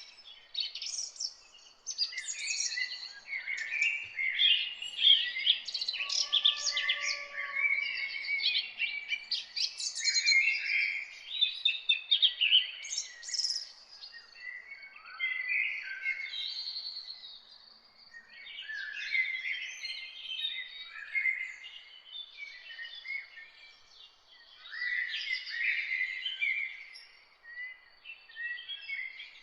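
Several songbirds singing and chirping together in overlapping quick phrases, with short lulls between bouts.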